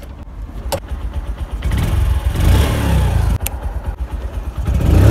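Motorcycle engine being started: a faint rumble and a click, then the engine catches and runs, much louder from about one and a half seconds in.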